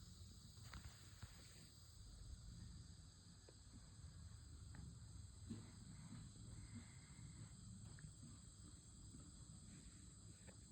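Near silence: a faint, steady high-pitched chorus of insects such as crickets, over a low rumble of wind.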